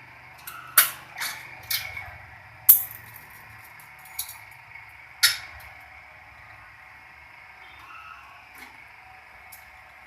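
Steel reinforcing wire clanking and clinking against the metal of a small stirrup-bending jig: about six sharp, ringing clanks in the first half, then a few faint ticks.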